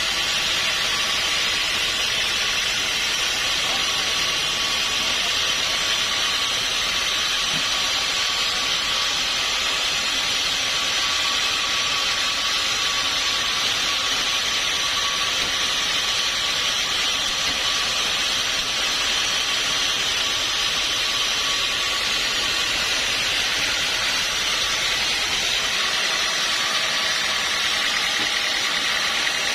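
Sawmill machinery running steadily, a constant high rushing noise with a faint whine through it.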